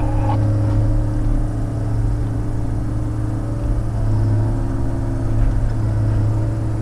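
Diesel engine of a log loader running steadily under load while loading a log truck; its note rises briefly about four seconds in, then settles back.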